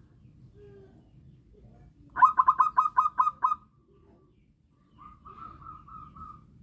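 Zebra dove (perkutut) singing: a loud run of about eight quick cooing notes, then after a short pause a fainter run of about five notes.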